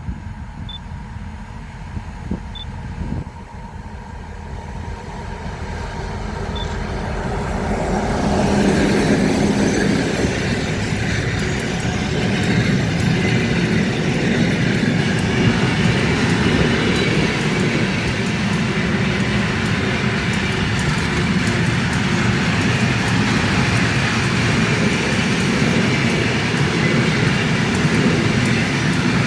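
A freight train approaching, growing louder over the first eight seconds or so, then passing steadily as a loud rolling rumble with dense clicking from the wagons on the rails.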